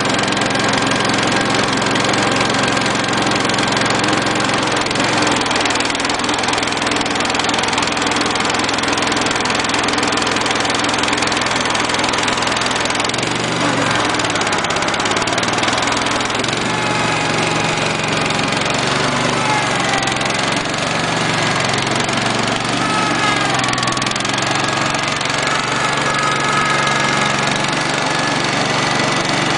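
Small garden-tractor engine running steadily, its pitch dipping and rising a few times in the second half as the engine speed changes.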